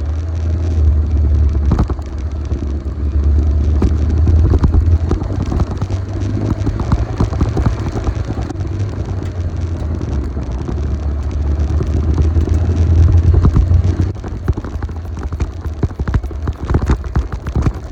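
Motorcycle on the move: a low engine and road rumble mixed with wind buffeting the microphone. It swells louder twice, about four seconds in and again near the end.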